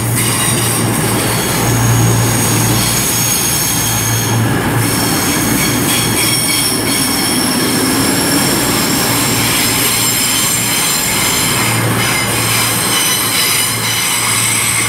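CrossCountry Class 220 Voyager diesel multiple unit arriving into the platform with a loud, high-pitched squeal of several steady tones, over the low hum of its diesel engines. The squeal is a noise as bad as a Pacer's.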